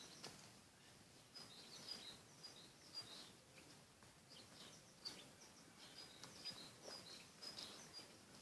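Faint, repeated short high chirps of small birds, with a few soft scuffs and clicks from puppies' paws moving on brick paving.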